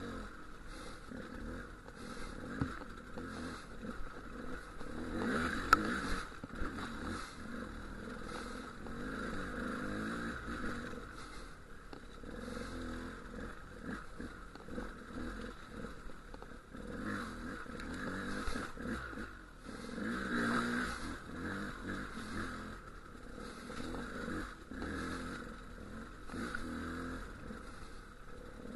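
Dual-sport motorcycle engine running in second gear at trail speed, the throttle and clutch worked over rough lava rock so the sound swells and eases every few seconds. Knocks and scrapes come from the bike on the rocks, with one sharp click about six seconds in.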